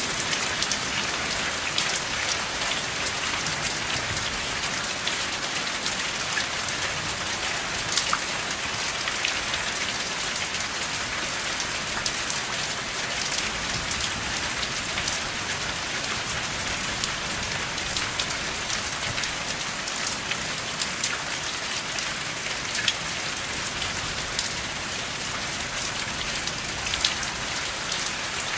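Steady rain falling without thunder: an even hiss of rainfall with scattered sharp ticks of individual drops hitting a surface.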